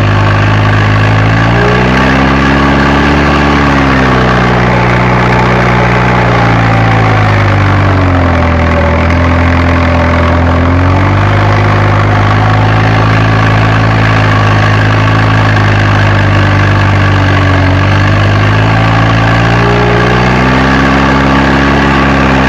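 Fiat Agri tractor's diesel engine running steadily, heard from inside the cab. Its speed rises about two seconds in, drops for a few seconds around the middle, and rises again near the end.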